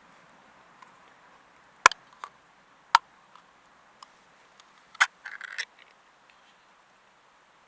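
A few sharp clicks and knocks, spaced a second or so apart, then a brief rattling cluster about five seconds in, over a faint steady background hiss.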